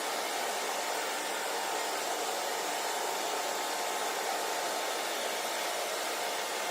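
Hair dryer running steadily: an even rush of blown air with a faint, steady whine.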